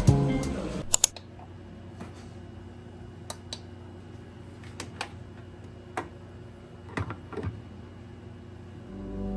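Scattered keystrokes on a computer keyboard, irregular single clicks and a few quick pairs. Background music fades out in the first second and comes back in near the end.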